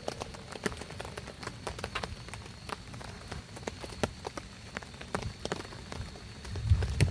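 Raindrops tapping irregularly on a surface, heard as many separate sharp drips rather than a steady downpour, with a low dull thump near the end.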